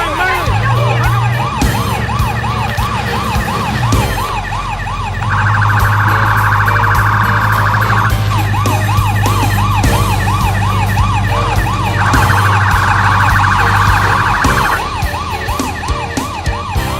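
Police siren wailing in fast up-and-down sweeps, about two a second. It switches twice to a much faster, higher yelp, each time for about three seconds, over a steady low hum.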